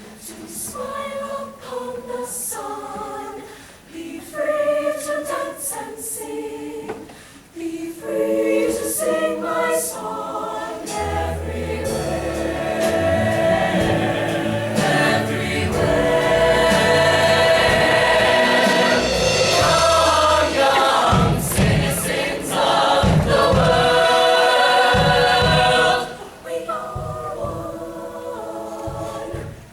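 A choir singing. About eleven seconds in it swells louder and fuller over a deep bass line, then drops back to the lighter voices near the end.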